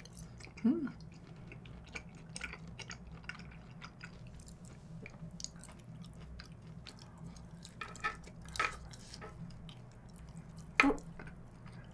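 A person chewing food close to the microphone: many small mouth clicks and smacks, with a few brief hums about a second in, twice more around three-quarters through and near the end.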